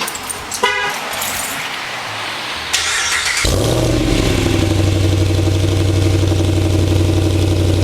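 A short beep, then the starter cranks a 2017-era Ram Power Wagon 2500's 6.4 L HEMI V8 about three seconds in. The engine catches and settles into a steady, loud idle through a new Magnaflow muffler with Mufflex intermediate pipes.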